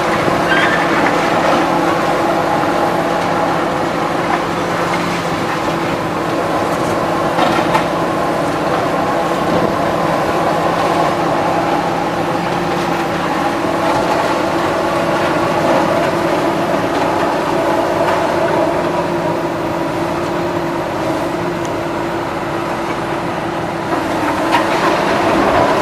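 A heavy engine running steadily, with a few short knocks, at about half a second, at about seven and a half seconds and near the end.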